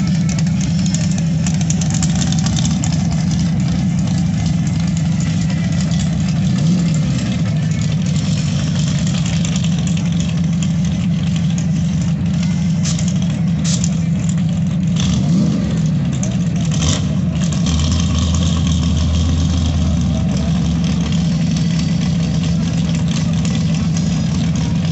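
Off-road drag-racing vehicle engines idling loudly and steadily at the starting line, with two short revs about seven and fifteen seconds in.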